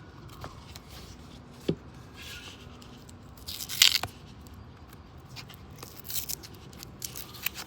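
A paper-wrapped roll of $2 coins being broken open and handled: a sharp click a little under two seconds in, then a louder tearing rustle of the wrapper just before the middle, with small ticks of coins and paper around it.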